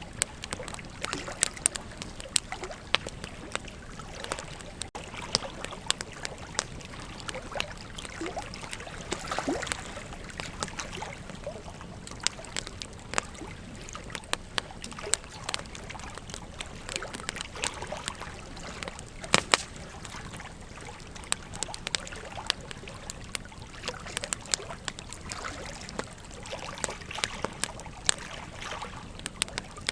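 Burning wood crackling and popping in a campfire, sharp irregular snaps over a steady rush of flowing river water. One louder pop comes about two-thirds of the way through.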